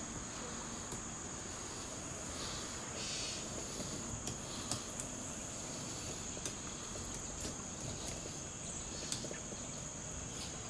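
Insects chirping in a steady, high-pitched trill, with scattered sharp taps at uneven intervals.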